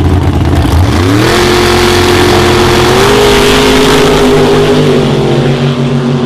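A high-horsepower drag-racing car's engine launching at full throttle. A low rumble gives way about a second in to a sharply rising pitch that then holds high as the car pulls. The pitch steps up slightly about three seconds in and eases off a little near the end.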